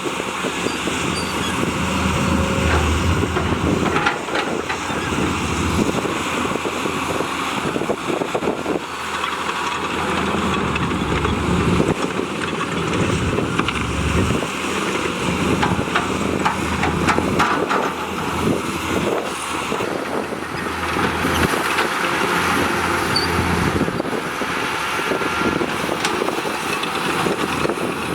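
Diesel engine of heavy earthmoving equipment running under varying load, its level swelling and easing several times, with a few short metallic clanks.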